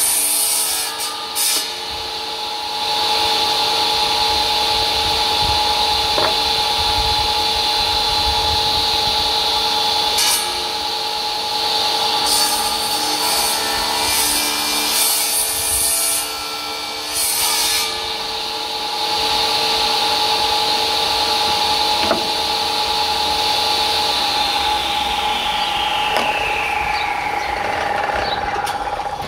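Old belt-driven table saw running with a steady hum, cutting wood several times with bursts of rasping saw noise. Over the last few seconds its pitch falls as it runs down. The owner says the belt slipped and the motor slowed under load, because the motor is held against the belt only by its own weight.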